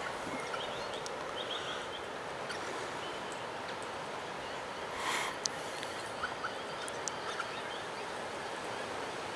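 Steady rushing background of rough weather off the lake, with a few short, high bird chirps in the first two seconds and scattered small ticks. A brief rustle comes about five seconds in.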